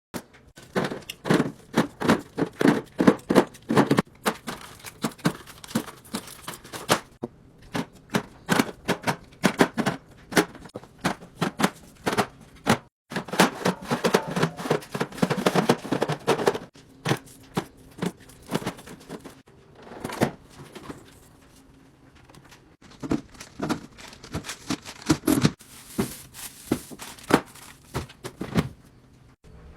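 Drinks and small grocery items being handled and set into a fridge: a rapid run of clicks, knocks and clinks of containers against shelves and each other, with a few short pauses.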